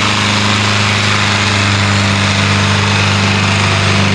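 A sport-class pulling tractor's engine running loud and steady at high revs under load while it drags the brake sled down the track.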